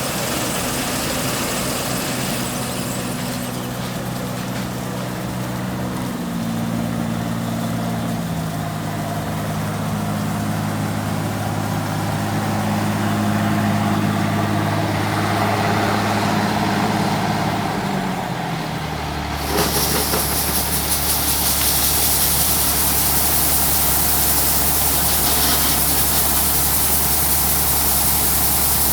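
Farm machinery engine running steadily, its pitch stepping up and down a few times. About two-thirds through it changes abruptly to a lower, steady drone with a loud hiss.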